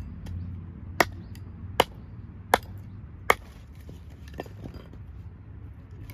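Four sharp knocks, evenly spaced about three-quarters of a second apart, followed by a few fainter clicks.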